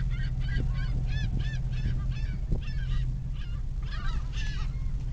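A flock of seagulls calling over one another: many short, arched cries, several a second, thinning out past the middle and picking up again near the end, over a steady low hum.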